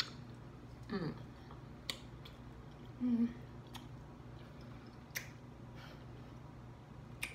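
Close-up eating sounds: a person chewing a piece of pork tenderloin, with sharp lip-smacking clicks every second or two and two short voiced hums with the mouth full, one about a second in and one about three seconds in.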